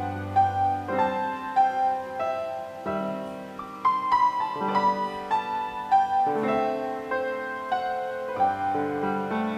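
Slow, gentle piano music: a sustained melody over held chords.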